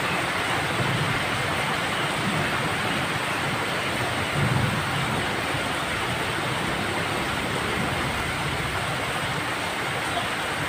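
Steady rain falling, an even hiss, with a brief low rumble about four and a half seconds in.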